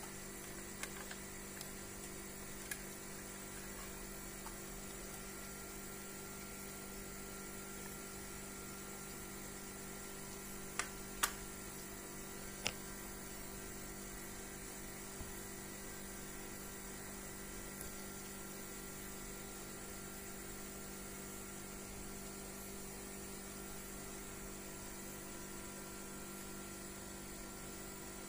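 Steady electrical hum, a low drone with an even hiss, broken by a few faint sharp clicks about a second in, near three seconds, and a cluster around eleven to thirteen seconds.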